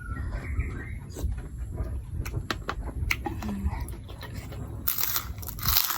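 A person eating noodle soup: small clicks and chewing noises over a low rumble, with a louder, rushing burst of noise about five seconds in.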